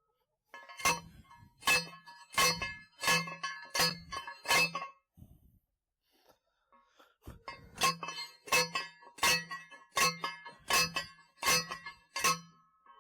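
Steel T-post being pounded into the ground with a metal post driver: sharp ringing clangs of metal on metal, about one every three-quarters of a second, in two runs of six or seven strikes with a short pause between.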